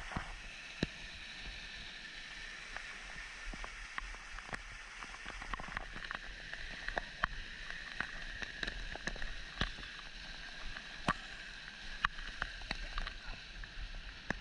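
Stream water running steadily, with scattered sharp clicks and splashes over it that come more often in the second half.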